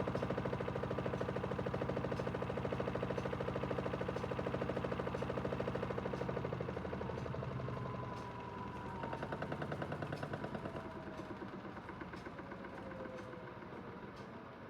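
Aidoo 1 kg mini washing machine's direct-drive motor and drum running in the final spin, with a fast, even rattle. About halfway through it slows down, getting quieter with a falling whine.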